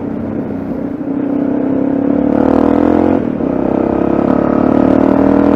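Yamaha XT660Z Ténéré's single-cylinder engine pulling hard under acceleration, its pitch rising, dropping at an upshift about three seconds in, then rising again until another drop at the end.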